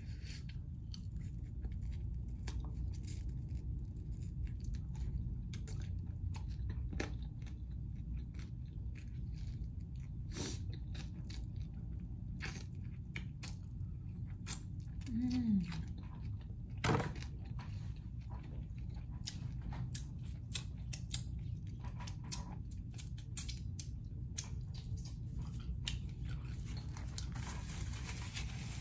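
A person chewing and biting a chicken wing close to the microphone, with many wet mouth clicks and smacks as they eat and lick their fingers. There is a short hummed 'mm' about halfway through, and a soft rustle of a napkin near the end.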